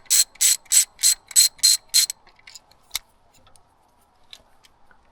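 Socket ratchet wrench worked back and forth, a quick run of ratcheting strokes about three a second that stops about two seconds in, followed by a few faint ticks, as a bolt is backed out to take off an ignition coil pack.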